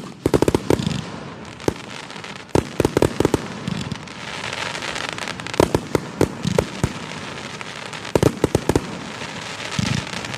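Aerial fireworks going off: volleys of sharp bangs in quick clusters every few seconds, over continuous crackling and hissing from bursting shells.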